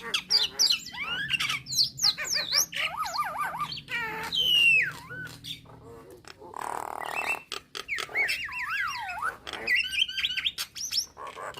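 Nias hill myna calling in a rapid, varied string of whistles, rising and falling glides, wavering notes and clicks, with a harsh squawk a little past halfway.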